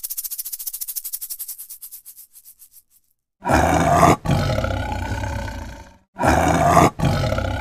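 A snake's rapid dry rasping rattle that fades out over about three seconds. Then a tiger roars twice, loud and long, starting about three and a half seconds in.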